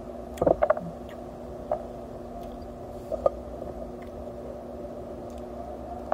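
A person eating with closed lips: a few short wet smacks and clicks of chewing, a cluster of them about half a second in and a couple more later, over a steady background hum.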